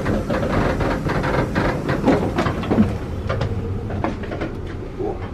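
Indian Pacific passenger train in motion, heard from inside as the carriages rumble and rattle over the track, with many small knocks and clatters, loud in the gangway between carriages.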